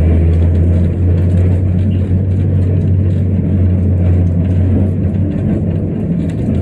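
Heritage electric tram running, heard from on board: a steady low hum that drops away about five seconds in, over a continuous rumble and rattle.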